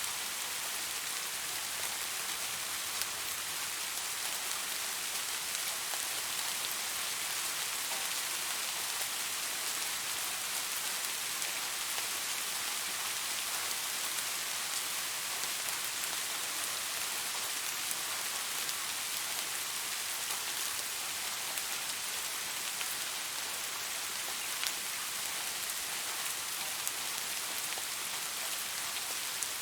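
Steady rain falling on leaves, an even hiss with faint scattered drop taps.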